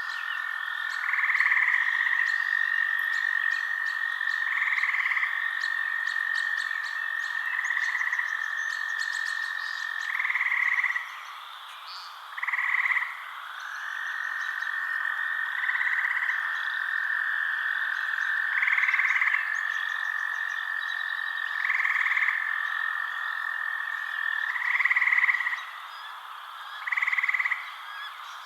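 Frogs calling at night: a long steady trill that breaks off for a few seconds around the middle, over louder short calls that repeat about every three seconds.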